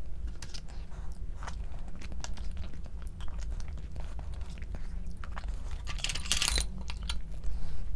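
A person chewing and biting crunchy food close to the microphone, with many small clicks and smacks. There is a brief louder crackle about six seconds in.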